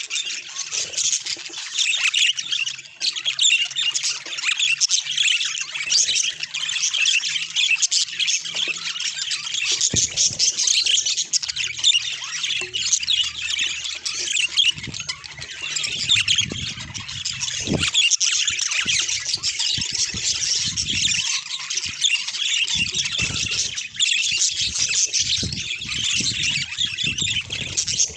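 Budgerigars chattering and squawking without a break, a dense run of high chirps and squawks.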